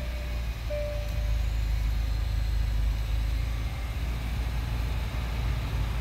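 Hyundai Sonata's engine idling steadily just after a push-button start, with two short electronic dashboard chimes in the first second.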